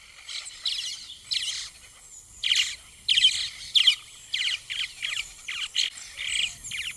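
Songbird singing: a run of short, high chirping phrases, one after another, with brief gaps.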